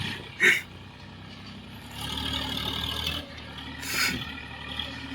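Massey Ferguson 7250 DI tractor engine running steadily under a heavy pulling load, with two short sharp noisy bursts, about half a second in and about four seconds in.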